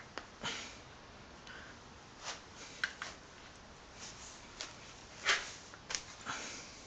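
Dual-mass flywheel of an Opel Vectra 2.2 DTI being rocked back and forth by hand to check its free play. It gives a series of irregular metallic clicks and short scraping knocks, the loudest about five seconds in.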